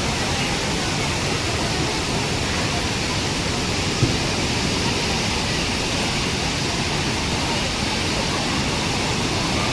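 Steady roar of a large waterfall, water crashing down the rocks of the Cauvery River cascades, with one brief knock about four seconds in.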